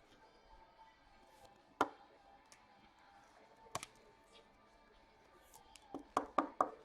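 Sharp clicks of hockey trading cards being handled and set down on a table: single clicks about two and four seconds in, then a quick run of four near the end. Faint background music plays underneath.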